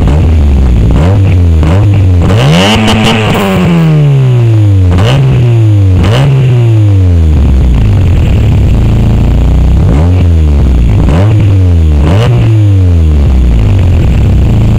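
Opel C20XE 2.0 16-valve four-cylinder engine revved repeatedly through a 60 mm (2.25-inch) exhaust with a 4-2-1 manifold, loud. The pitch climbs and falls with each throttle blip, the biggest about two seconds in, with several shorter blips after it.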